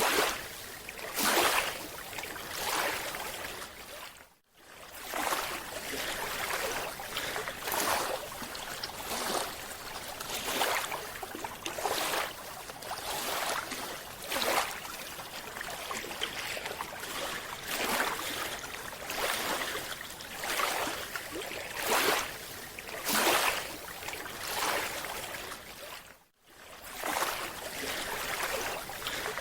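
Water noise rising and falling in surges every second or two, with two brief dropouts to near silence, one about four seconds in and one near the end.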